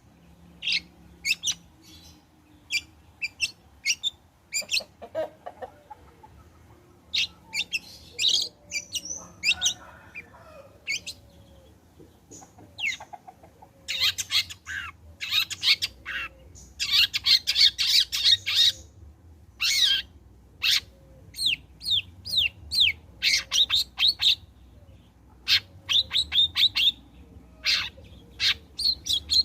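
Long-tailed shrike singing hard: runs of short sharp notes and harsh chattering phrases. The song is densest around the middle and again near the end.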